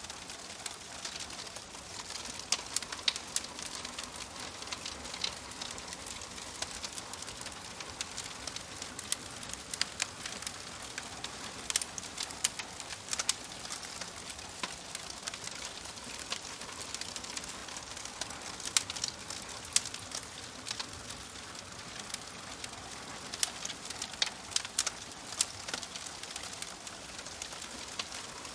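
Wood fire crackling in a fireplace: a steady soft hiss with irregular sharp pops and snaps, some coming in quick clusters.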